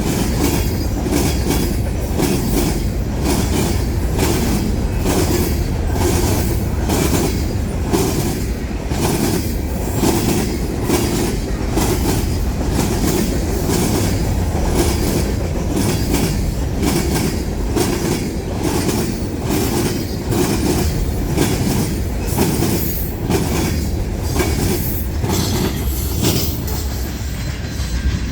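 Freight cars of a manifest train rolling past, with a steady rumble and a rapid, regular clicking of the wheels over the rail joints.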